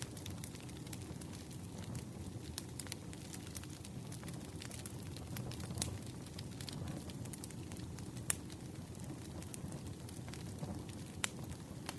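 Wood campfire burning with a steady low rumble and scattered crackling pops, the sharpest about eight and eleven seconds in.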